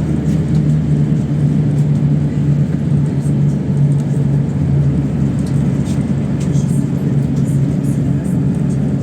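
PAZ 32054 bus engine running under way, heard from inside the cabin as a steady low drone with road rumble.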